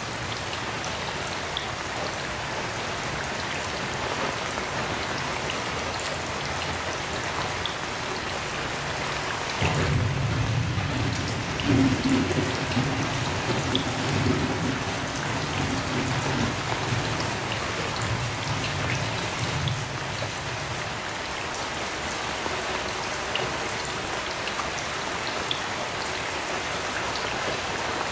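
Heavy rain falling steadily, with scattered drop ticks. About a third of the way in, thunder starts suddenly and rumbles for roughly ten seconds, loudest early on, then fades back under the rain.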